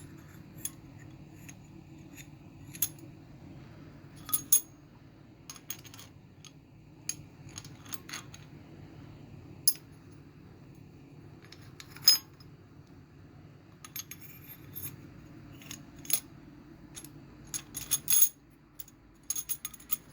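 Scattered, irregular sharp metallic clinks and taps as steel valvetrain parts are set into a GM 4.3L V6 engine block. The loudest clink comes about twelve seconds in, and there is a quick cluster near the end. A steady low hum underneath stops shortly before the end.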